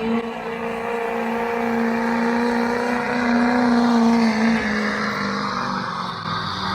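A truck-pull competition truck's engine held at high revs under full load, running at a nearly steady pitch. The pitch eases down a little about four and a half seconds in.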